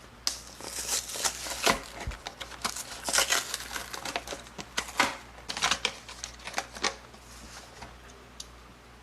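Hands handling a small toy car and its plastic packaging: a quick irregular run of clicks, taps and crinkling rustles that stops about seven seconds in.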